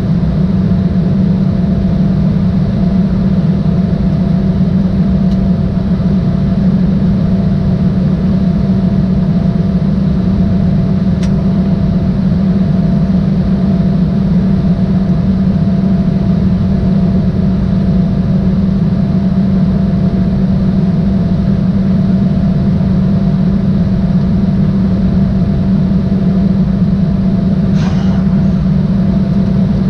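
Steady drone inside the cabin of an Embraer E175 jet, from its GE CF34 turbofan engines and the rushing air, with a low hum and a few steady tones over it. Two faint clicks are heard, about eleven seconds in and near the end.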